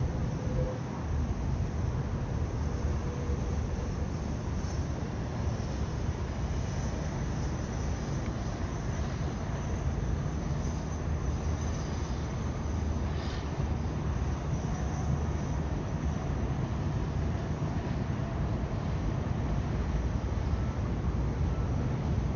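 Steady low rumbling noise with a faint hiss above it, unchanging throughout.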